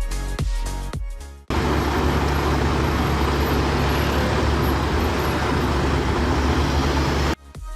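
Electronic music with a steady beat, cut off about a second and a half in by a steady vehicle rumble with a low hum, like engine and traffic noise. The rumble runs about six seconds and stops abruptly near the end, as the music resumes.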